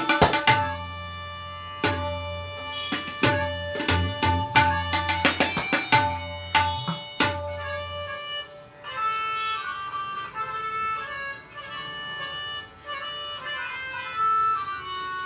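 Tabla solo in teentaal: sharp strokes on the right-hand drum and ringing bass strokes on the left, over a repeating melodic lehra accompaniment. About eight seconds in, the drumming stops and the lehra carries on alone.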